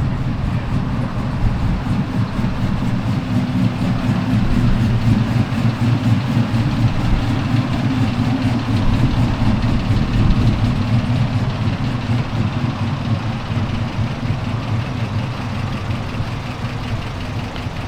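A vehicle engine idling close by with a steady low rumble, easing off a little near the end.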